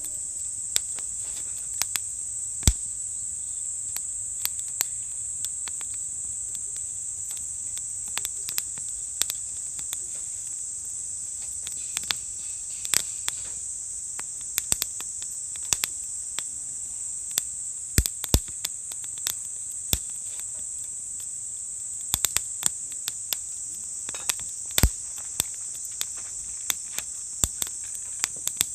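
Insects, crickets, keeping up a steady high-pitched trill, with irregular sharp pops and crackles from a wood campfire.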